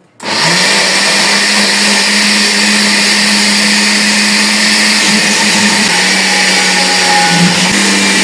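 Electric blender switched on and running at a steady speed, blending a thick avocado sauce. The motor comes up to speed within a fraction of a second and then keeps an even hum.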